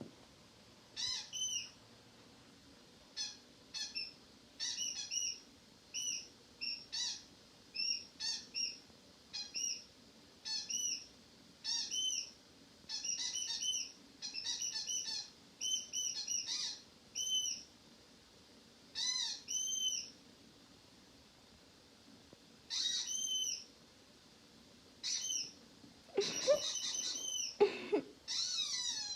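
Squeaky dog toy squeaking over and over in short squeaks, each rising then falling in pitch, singly or in quick runs of two to five. Near the end comes a faster, denser flurry of squeaks.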